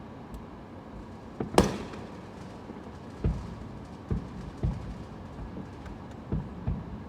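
Fireworks going off: one sharp, loud bang about a second and a half in, followed by a string of duller booms.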